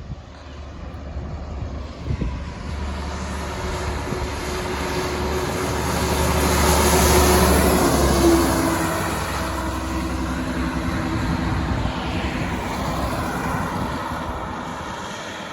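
Fire engine driving past without its siren: engine and tyre noise build to a peak about halfway through, then fade as it moves away.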